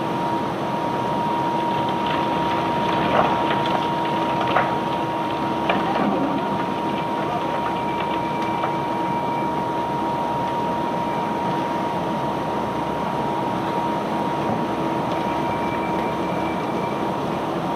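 Barge unloading machinery running steadily with a constant whine, with a few sharp knocks between about three and six seconds in.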